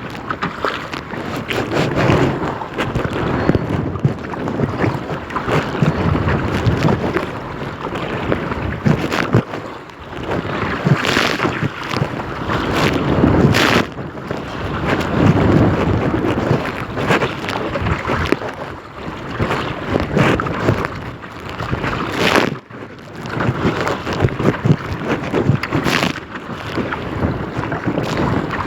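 Strong wind buffeting the microphone over water lapping around a kayak, swelling and easing in gusts, with a few short, sharp splashes.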